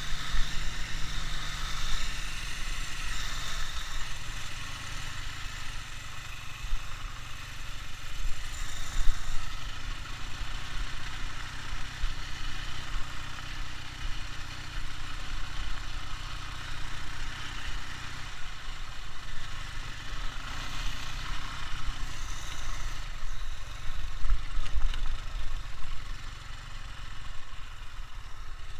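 Ural motorcycle's two-cylinder boxer engine running steadily at low revs, its loudness rising and falling unevenly.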